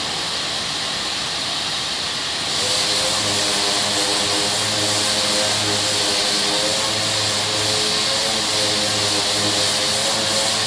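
Power sander running while it sands body filler, a steady whir that gets louder and fuller about two and a half seconds in.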